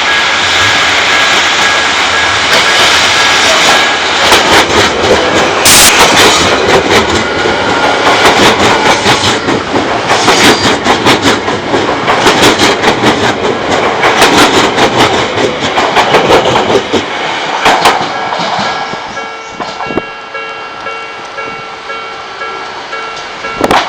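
An Odakyu electric train passing over a level crossing, its wheels clattering over the rail joints for about fourteen seconds before the sound dies away. A steady ringing of the crossing's warning bell is heard at the start and again once the train has passed.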